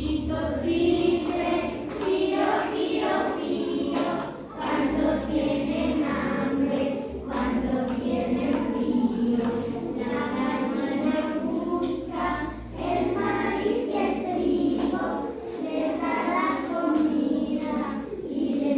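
A group of children singing a song together, with short breaks between phrases.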